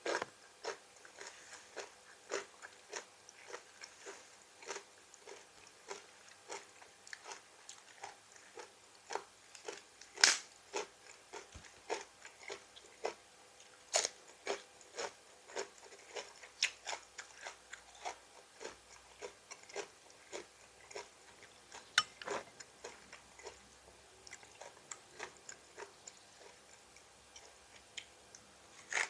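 A person biting and chewing crisp raw vegetables close to the microphone: sharp wet crunches at an irregular pace, about one to two a second.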